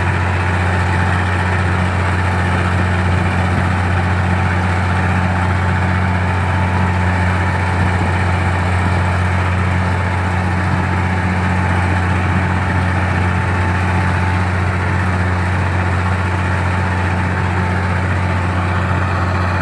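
Komatsu D60-8 bulldozer's diesel engine running at a steady, unchanging speed with a low drone.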